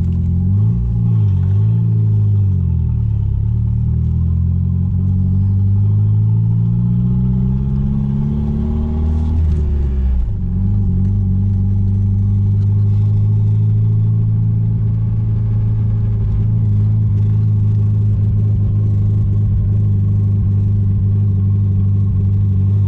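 The Chrysler Conquest's Mitsubishi G54B 2.6-litre turbocharged four-cylinder engine pulling the car along on the road. The engine note wavers, then climbs steadily for several seconds. About ten seconds in it drops sharply, as on a throttle lift or gear change, and then runs at a steady pitch.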